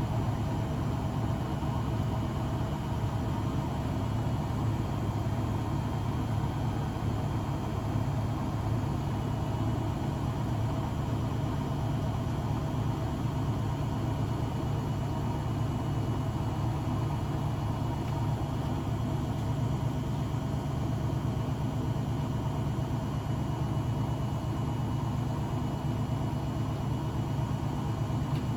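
Blomberg WAF 7442 SL front-loading washing machine running steadily mid-cycle: a continuous low hum with a faint steady whine above it.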